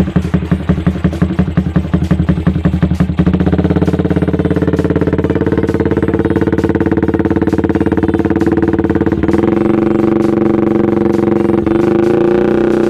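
Yamaha Vixion's single-cylinder four-stroke engine running through an aftermarket racing exhaust. It idles in quick, uneven pulses, then about three seconds in it is brought up to a raised engine speed and held there steadily, nudged a little higher twice near the end.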